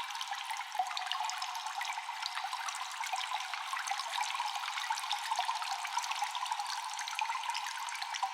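Constant water dripping in a cave: many small echoing drops ticking over a steady trickling wash of water, with little low end.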